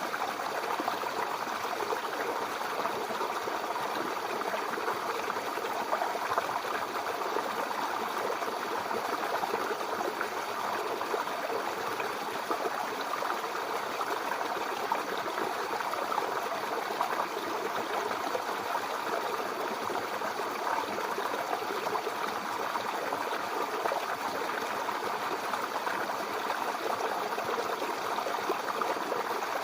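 Mountain river or stream flowing over rocks: a steady rushing and gurgling of water that does not change.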